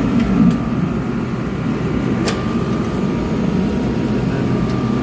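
Steady whir and hum of running cold-room refrigeration equipment and fans, with a thin steady high whine over it and a single sharp click about two seconds in.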